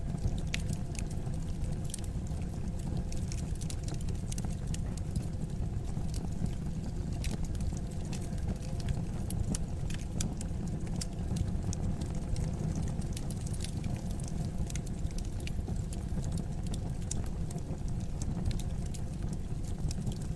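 Wood fire in a fireplace crackling, with frequent sharp irregular pops and snaps over a steady low rumble of the burning.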